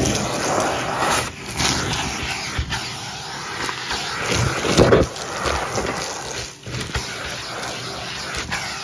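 Numatic Hetty cylinder vacuum cleaner running, sucking up a scattered mess through its hose and metal wand, with clicks of debris and brief drops in the airflow.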